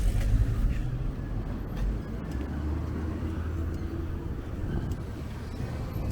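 Street traffic heard from a moving bicycle: a low, steady rumble of a car engine and road noise, with a steadier low hum in the middle.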